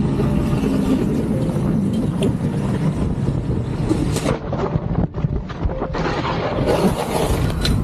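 Vehicle under way in traffic: engine running with steady road and wind noise, and a brief louder whoosh about four seconds in.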